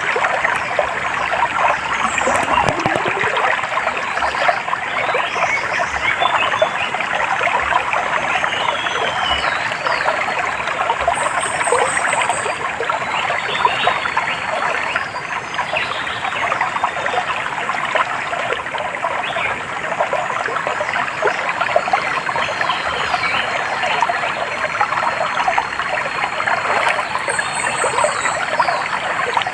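Stream water trickling and babbling steadily, with a few short, high bird chirps twice over it.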